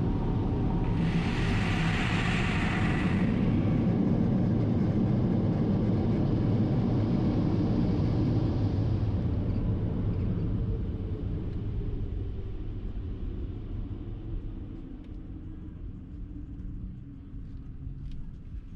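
Automatic car wash machinery running with a steady low rumble and a burst of hiss about a second in that lasts about two seconds. The rumble dies down over the second half.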